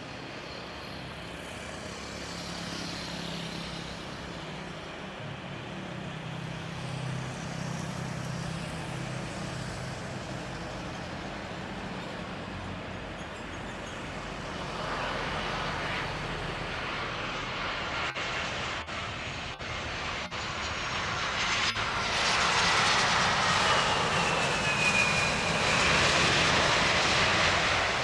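Thai Airways jet airliner on landing approach passing close overhead: steady engine noise that grows louder over the second half, with a thin whine falling in pitch near the end.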